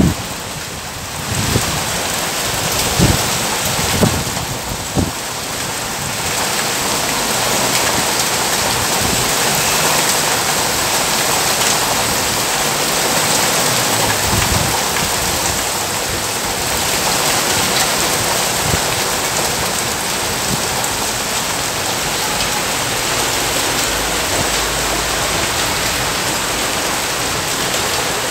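Heavy rain pouring down steadily onto wet pavement and parked motorcycles and cars, a dense even hiss. A few brief low thumps come through in the first five seconds.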